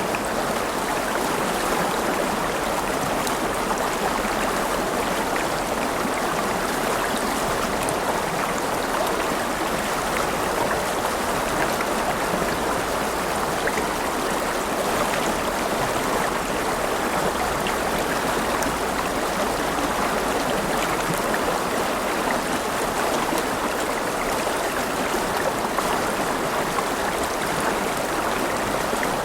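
River water flowing over stones, a steady rushing and babbling with small splashes.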